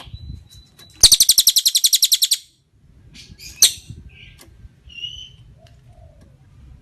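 Tengkek cililin bird singing: a loud, fast, even rattling trill of about a dozen notes a second lasting over a second, then a single sharp call and a few softer short whistles.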